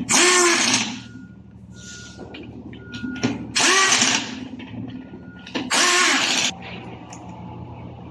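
A power tool run in three short bursts, each under a second and spaced a few seconds apart, with a whine that rises and falls inside each burst. A steady low hum runs underneath.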